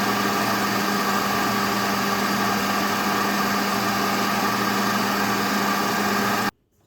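Electric kitchen grinder running steadily at speed, grinding the shami kebab mixture of boiled chicken and dal, with a constant hum; it cuts off suddenly near the end.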